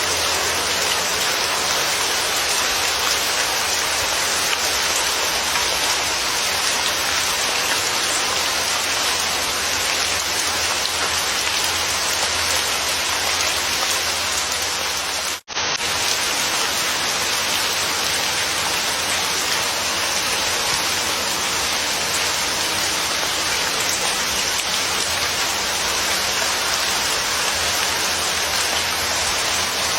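Steady rain falling, an even wash of drops, broken by a sudden split-second dropout about halfway through.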